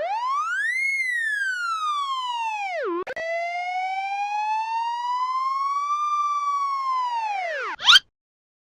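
A siren wailing in long pitch sweeps: it rises for about a second and falls, then after a brief break about three seconds in climbs slowly again and drops steeply, ending in a short loud crackle about eight seconds in before cutting off.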